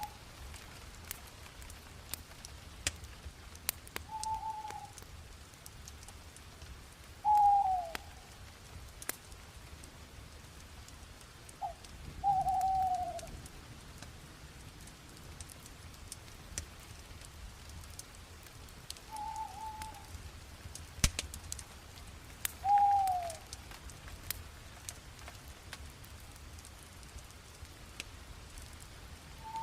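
Bonfire crackling with scattered sharp pops, one loud pop about two-thirds of the way through. A bird calls about six times in short single notes, several falling in pitch.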